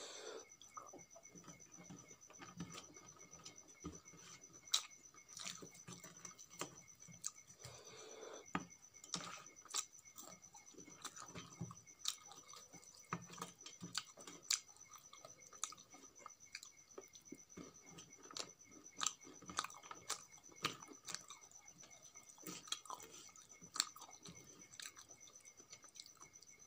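Close-miked chewing and wet mouth clicks of someone eating rice and crispy fried chicken, with frequent short sharp clicks and soft crunches. A faint steady high whine runs underneath.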